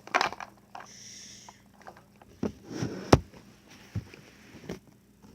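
Slime being stirred in a bowl: irregular scraping and clicking, with a brief hiss about a second in and a sharp knock about three seconds in, the loudest sound.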